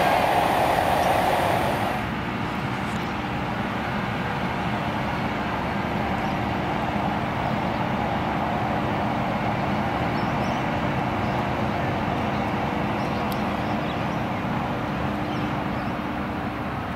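Electric suburban train running along an elevated concrete viaduct: a steady rumble with a faint steady hum, louder for the first couple of seconds.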